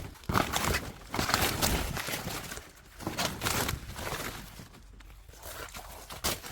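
Rustling and crunching of dry vegetation and plant debris, in irregular bursts of a second or so.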